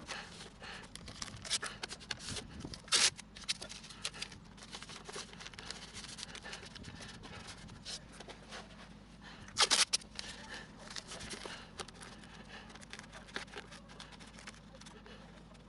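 Intermittent scrapes and clicks of hand work on sheet metal, with two short louder scraping bursts about three seconds and ten seconds in.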